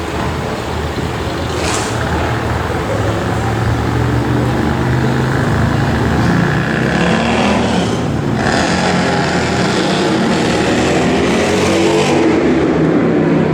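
Lamborghini Gallardo V10 engine accelerating hard at high revs, the pitch climbing, with a brief break about eight seconds in before it climbs again.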